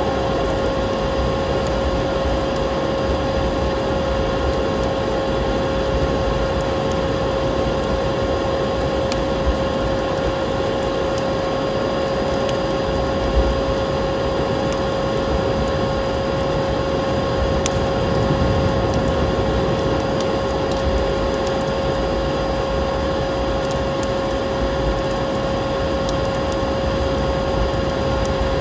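Vacuum cleaner running steadily with an unchanging motor hum and rush of air, under the scattered small crackles of a wood fire.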